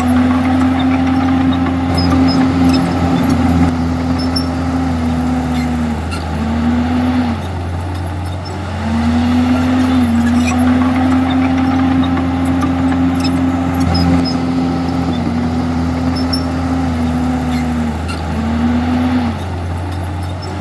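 Komatsu D51EX bulldozer's diesel engine running steadily under load. Its pitch sags and recovers twice, about six seconds in and again near the end, as the load changes.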